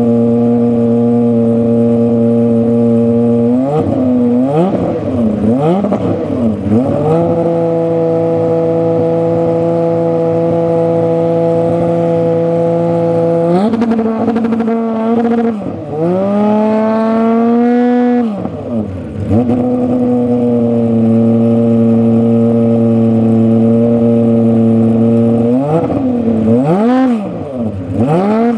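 Aston Martin Vulcan's 7.0-litre naturally aspirated V12 idling steadily, with a few quick throttle blips. About halfway through comes one long rev that rises and falls, and there are more short blips near the end.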